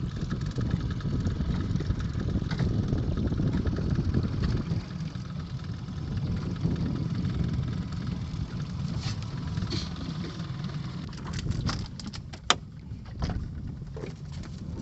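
A motor running steadily with a low rumble, most likely a fishing boat's engine; several sharp knocks come in the last few seconds.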